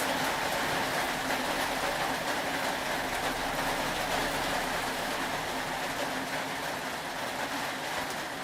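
Steady rain ambience: an even hiss of falling rain with faint scattered drips, unchanging throughout.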